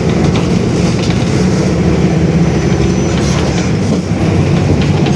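Mercedes-Benz OF-1721 BlueTec 5 bus's diesel engine running steadily at an even pitch, a loud low drone.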